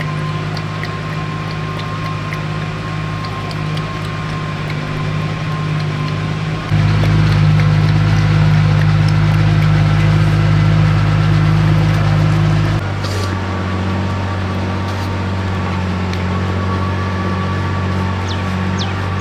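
An engine running steadily with a low hum. It gets louder about seven seconds in and shifts to a different pitch about thirteen seconds in.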